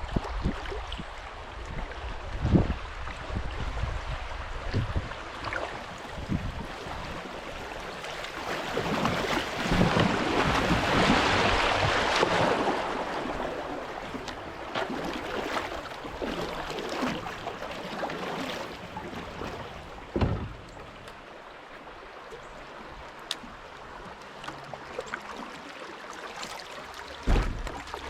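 Creek water rushing and splashing around a kayak, swelling loudest in the middle, with a few sharp knocks.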